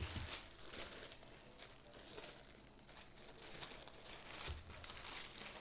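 Plastic food packaging being handled, crinkling and rustling on and off, with a soft knock at the start.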